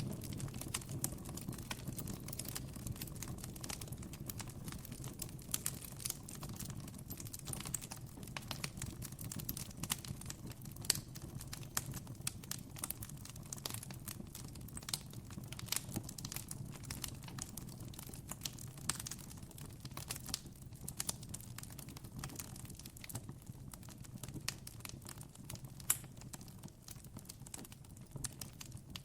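Campfire crackling steadily, with frequent sharp pops and snaps over a low, even rumble of burning wood.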